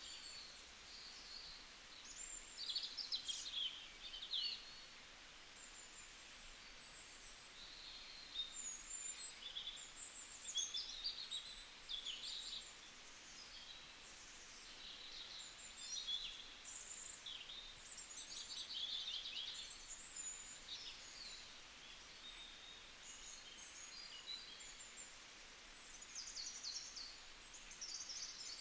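Several small birds chirping and trilling in quick, high-pitched phrases, call after call, over a faint steady background hiss.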